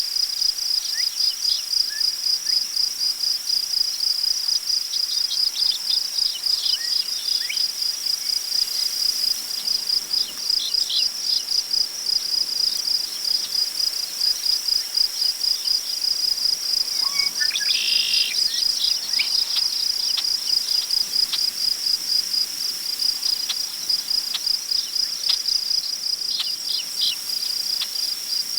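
Steady chorus of crickets trilling in a fast, even pulse, with scattered short bird chirps throughout and one longer falling bird call about two-thirds of the way in, over a faint hiss of wind in tall prairie grass.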